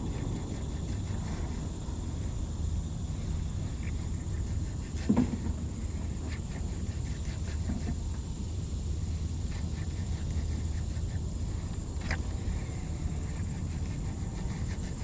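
Outdoor background with a steady low rumble, broken by one short loud sound about five seconds in and a sharp click near the end.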